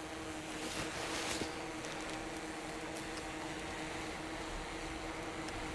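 DJI Mavic 2 Pro drone hovering overhead, its propellers making a faint steady hum, with a hiss of wind underneath.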